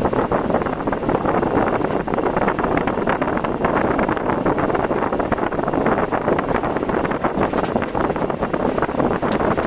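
Steady rush of wind and road noise from a car driving through a typhoon, with a dense scatter of small ticks over it.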